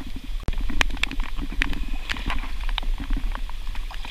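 Raindrops falling on a kayak and the water around it: scattered, irregular sharp ticks, a few a second, over a steady low rumble.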